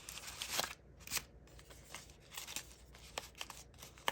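Rustling followed by scattered light clicks and taps as small diamond painting supplies are handled and set back in place.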